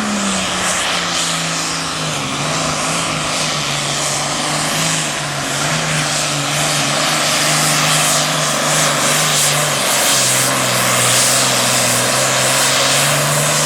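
Super Farm class pulling tractor's turbocharged diesel engine running hard under full load on a pull. Its pitch steps lower about a second in and again about ten seconds in as the sled bogs it down, then rises sharply right at the end.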